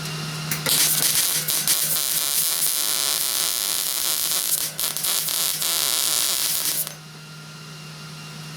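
Welding arc crackling and sizzling as a bead is laid on the car's rocker panel sheet metal, starting about half a second in and stopping suddenly after about six seconds. A steady low hum runs underneath.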